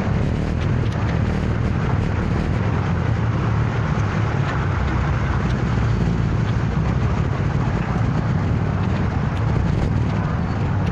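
Motor scooter riding at steady speed through city traffic: a constant low engine and road noise with no distinct events.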